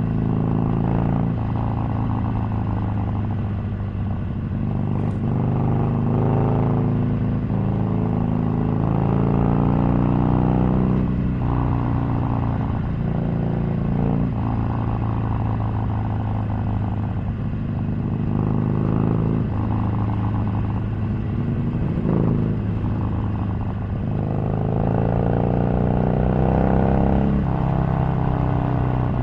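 Harley-Davidson 883's air-cooled V-twin engine running under way on the road, its pitch climbing several times as the bike accelerates and then falling back as it eases off. A single sharp click sounds about five seconds in.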